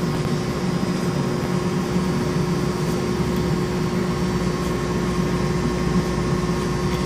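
Steady drone of running machinery in an equipment room, with a constant hum and no change in level.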